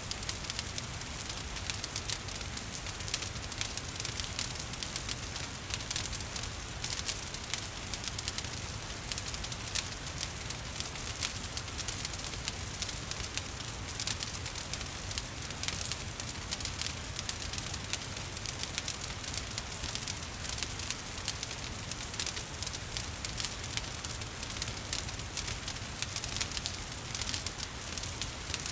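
Wood fire crackling with frequent sharp pops and snaps over a low rumble, mixed with the steady hiss of falling rain.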